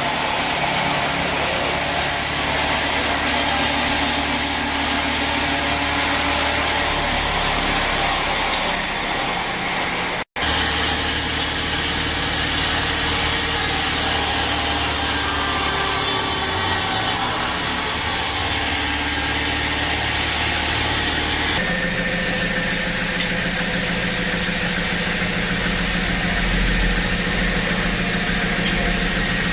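Sawmill bandsaw running and sawing through teak wood, with an engine running steadily under it. The sound cuts out briefly about a third of the way in and changes abruptly twice later on. In the last part the engine runs steadily with less of the cutting sound.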